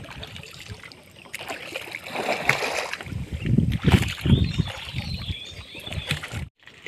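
Small boat moving on a river, with water sloshing and splashing against the hull in uneven surges. The sound drops out briefly near the end.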